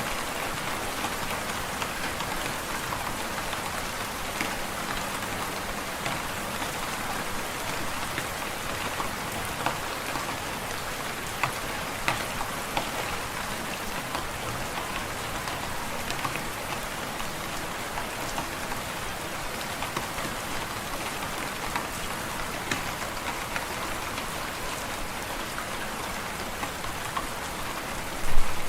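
Wood fire in a fireplace crackling: a steady hiss dotted with scattered small pops, and one louder crack near the end.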